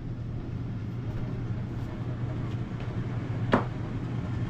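A steady low mechanical hum, with one sharp click about three and a half seconds in.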